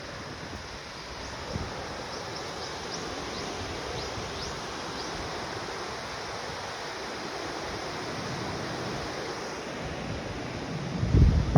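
River water flowing, a steady rush, with a gust of wind buffeting the microphone near the end.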